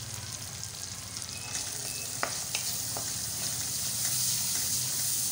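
Onions, chopped tomatoes and turmeric sizzling in hot oil in a pan as they are stirred. The sizzle grows louder about a second and a half in, with a few light clicks of the stirring against the pan.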